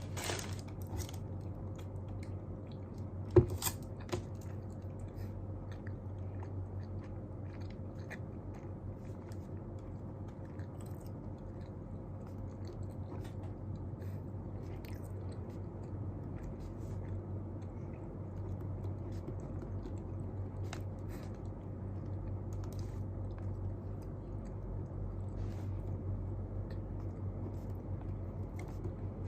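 Steady low room hum with scattered small clicks and taps, and one sharp click about three seconds in.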